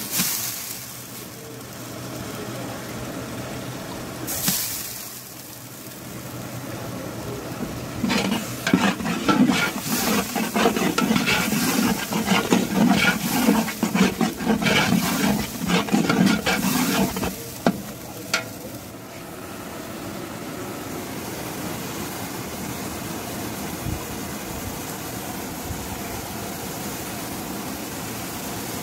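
Onion-tomato masala sizzling in oil in a large steel pot, a steady frying hiss throughout. From about eight seconds in, a ladle stirs and scrapes against the pot for roughly ten seconds in quick irregular strokes, the loudest part.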